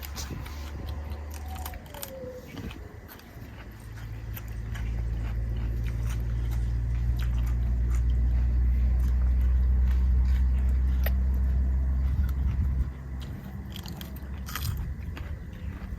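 Close-up chewing and crunching of green papaya salad and shrimp, with scattered wet clicks and bites. A low steady rumble swells up about four seconds in and cuts off suddenly near the end.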